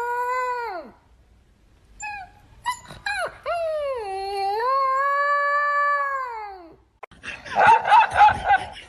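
A dog howling: a long howl that falls away about a second in, a few short yips, then a second drawn-out howl of about three seconds that wavers in pitch and drops off at the end. Near the end comes a second or so of quick, rough, noisy pulses.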